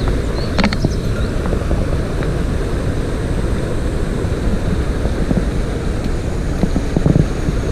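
Steady low rushing of a mountain stream, with a few faint clicks less than a second in and near the end, and some short high chirps.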